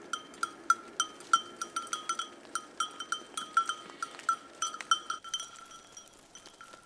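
Bells on grazing livestock clanking irregularly, several strikes a second, all at the same ringing pitch; they thin out and grow fainter after about five seconds.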